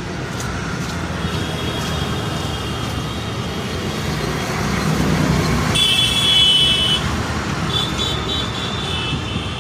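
Road traffic running by with a steady low rumble. A vehicle horn toots: a long blast about six seconds in and another near the end.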